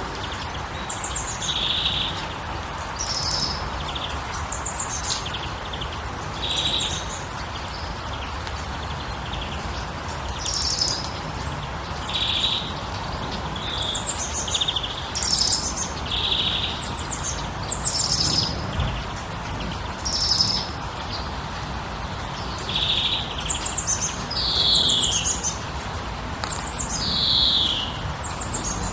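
Songbirds chirping and singing in repeated short phrases, some with quick downward-sliding notes near the end, over a steady, even background rush.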